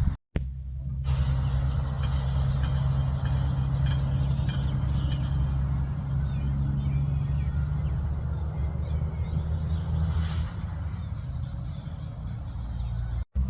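Heavy truck's diesel engine running steadily with a low, even engine note over road noise. The sound drops out briefly at the start and again near the end.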